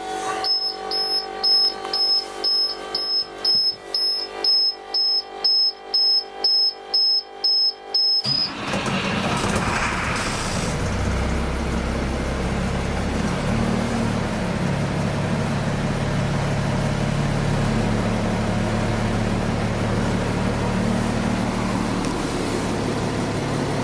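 A high warning beep repeats about twice a second for the first eight seconds. Then the 1998 International 4700's DT466E inline-six diesel cranks, starts and settles into a steady idle.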